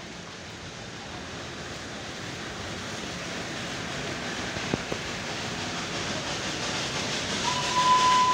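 Darjeeling Himalayan Railway toy train: a steady rushing noise that slowly grows louder, with one sharp click about halfway. Near the end a steady high tone starts and is held.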